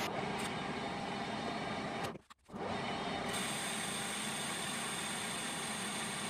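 Steady mechanical running noise from a machine-shop machine, with a brief dropout a little over two seconds in.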